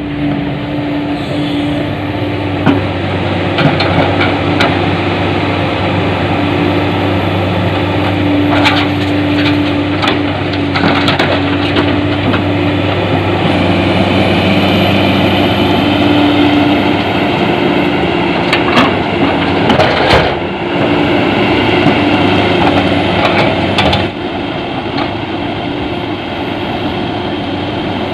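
Heavy diesel engine of an excavator running steadily, with a held hum, while scattered knocks and cracks ring out as its bucket dumps material into the steel bed of a dump truck.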